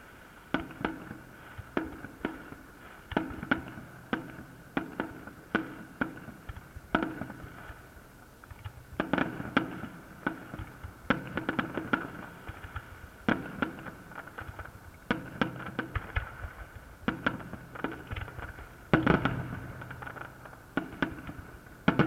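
Fireworks salute: a rapid, irregular run of shell bursts, bangs and cracks coming in clusters, loudest about nineteen seconds in.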